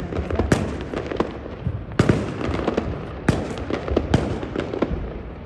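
Fireworks display exploding: a string of sharp bangs and crackles about every second, over a steady rumble of further shells bursting, easing off near the end.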